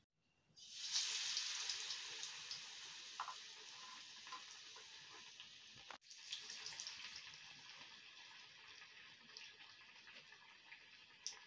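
Besan-battered bread slices deep-frying in hot oil in a kadai: the sizzle starts suddenly and loud about half a second in as the bread goes into the oil, then slowly dies down, with small crackles throughout. It cuts out for an instant about six seconds in and carries on.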